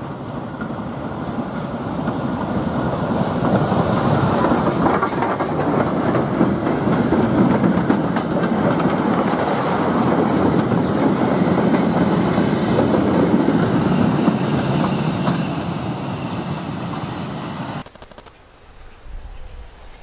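Goods train of box wagons and a tank wagon rolling past close by, its wheels rumbling and clattering over the rail joints. The noise builds over the first few seconds, holds steady and cuts off suddenly near the end.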